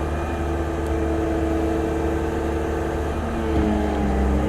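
Heavy machinery engine running steadily. About three and a half seconds in its pitch drops and it gets slightly louder.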